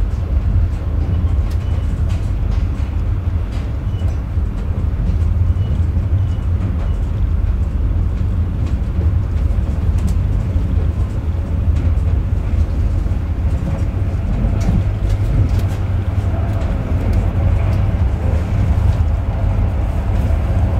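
Interior running noise of a Metronom double-deck passenger coach in motion: a steady low rumble of wheels on rails, with scattered light clicks over it.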